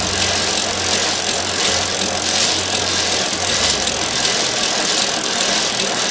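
Wire bingo cage being hand-cranked, the bingo balls tumbling and rattling against the wire in a steady continuous clatter.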